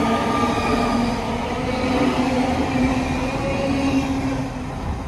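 A Great Western Railway Class 800 Hitachi bi-mode train pulls away past the platform. Its running gear rumbles and a drive whine rises slightly in pitch, and the sound fades near the end as the train clears the platform.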